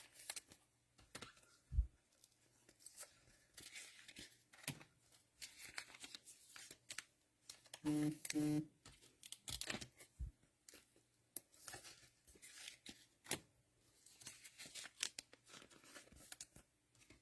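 Cellophane wrapper of a trading-card cello pack crinkling and tearing, with faint clicks and slides of cards being handled.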